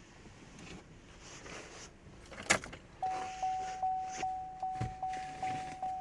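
Handling and rustling with a sharp click about halfway through, then a car's warning chime starts. The chime is a repeated ding about two to three times a second, with a dull thump under it near the end.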